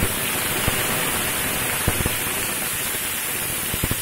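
Ivy gourd strips sizzling in hot oil in a frying pan as a spatula stirs them, with a few sharp clicks of the spatula against the pan.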